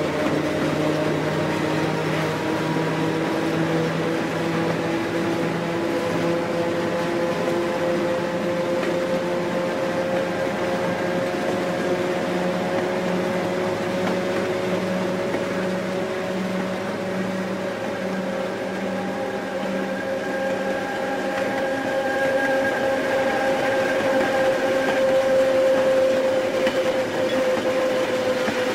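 A train running on rails: a steady rumble with several slowly drifting tones and a regular low beat about once a second, growing a little louder near the end.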